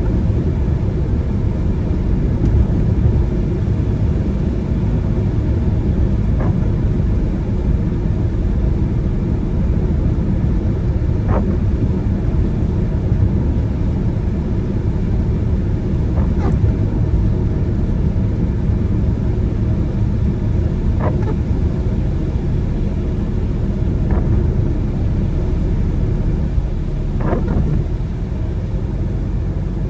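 Car driving on a wet road: a steady low road and engine rumble. A faint short sound comes through every four to five seconds.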